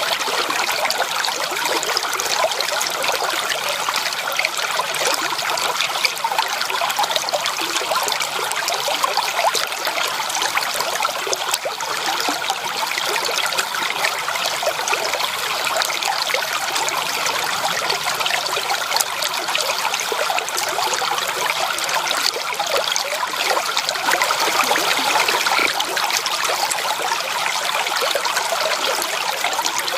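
Stream water running steadily: a continuous, even splashing with no breaks.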